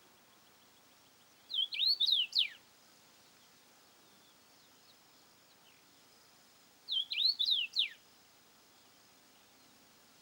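A songbird singing the same short phrase twice, about five seconds apart: a quick run of whistled notes, each phrase ending in a steep downward slur.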